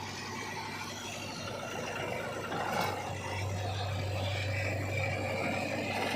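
Mahindra 265 DI tractor's diesel engine running steadily while pulling a loaded trolley, a low drone that grows a little louder about halfway through.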